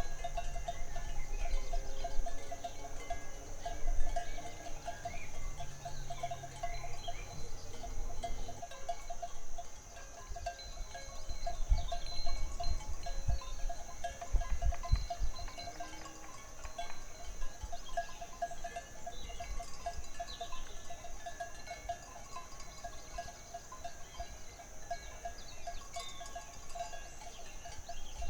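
Pasture ambience: insects trill steadily while cowbells clink now and then among grazing cattle. A low hum runs underneath and stops abruptly about a third of the way in.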